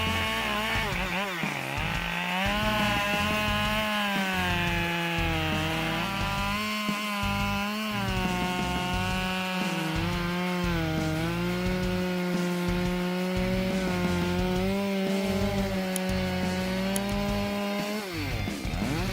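Husqvarna 572 XP two-stroke chainsaw running at high revs while cutting dry wood. Its pitch sags briefly several times as it works, then falls off sharply near the end.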